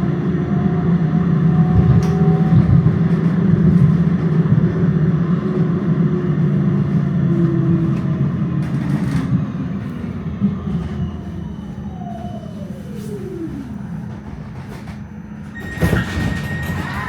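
Tram running, heard from inside: a steady rumble and motor hum whose pitch slowly falls, with a whine gliding down near the middle and the sound getting quieter as the tram slows. Near the end, a brief loud burst with a high steady tone.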